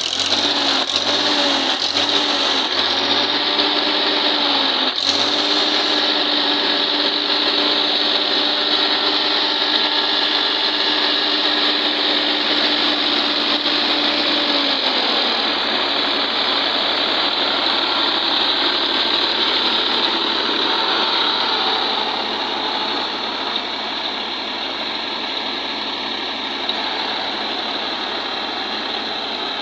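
Three-cylinder diesel engine of a Tafe 5450 DI tractor running steadily. A pitched hum in it drops away about halfway through, leaving a rougher, slightly quieter run.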